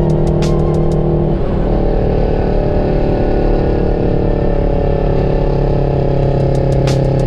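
Peterbilt 359 dump truck's Detroit diesel engine running steadily under way. About a second and a half in, the pitch drops sharply as a gear is changed, then it holds steady again.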